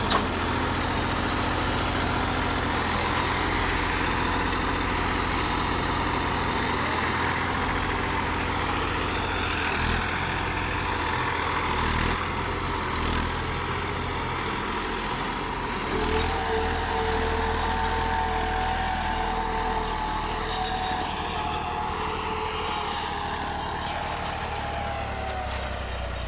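Massey Ferguson 241 Dynatrac tractor's three-cylinder diesel engine running steadily, with a few short knocks partway through. A higher steady whine joins about two-thirds of the way in and sinks slightly near the end.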